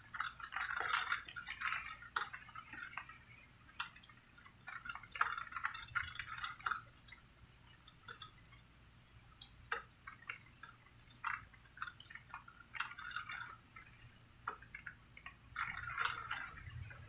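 Rain dripping and pattering unevenly, with single drops ticking sharply between short spells of heavier splashing, over a faint low hum.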